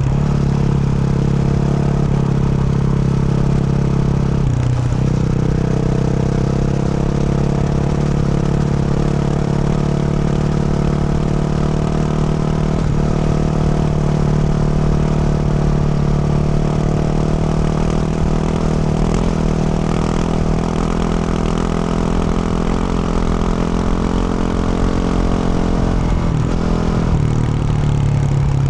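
2024 Yamaha YZ450F's single-cylinder four-stroke engine, fitted with a Yoshimura RS-12 exhaust, running steadily with brief drops in pitch about five seconds in and again near the end.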